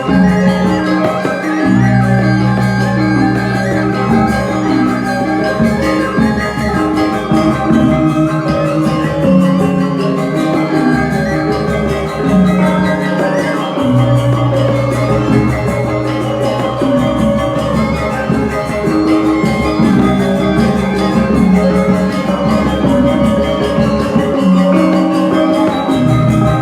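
Balinese bamboo flute (suling) music playing continuously over an accompaniment of held low notes that change every couple of seconds.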